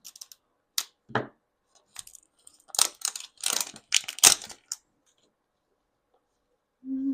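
Toy packaging being handled and opened: a few light clicks and taps, then scratchy tearing and rustling of the wrapping around the middle.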